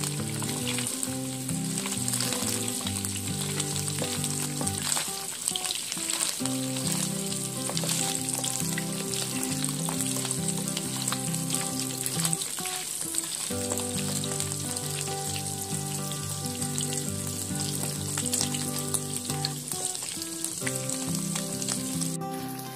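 Cylinders of egg tofu frying in hot oil in a pan: a steady, dense sizzle and crackle. Background music plays along, breaking off briefly about halfway through.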